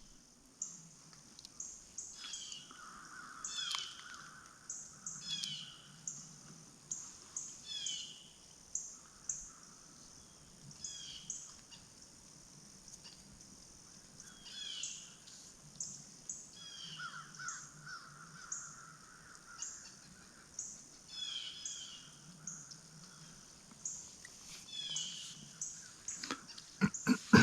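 Birds calling at dawn in the woods: many short, high chirps that each fall in pitch, repeated every second or so, with a few longer, lower calls mixed in.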